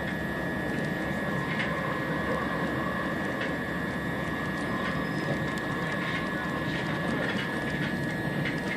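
Moving passenger train heard from inside the carriage: a steady rumble of wheels on the track with a constant high whine and irregular clicks and rattles.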